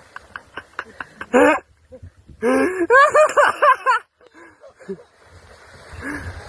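A man shrieking and yelping in short, rapidly repeated cries from the shock of icy floodwater. Splashing water comes before and after the cries.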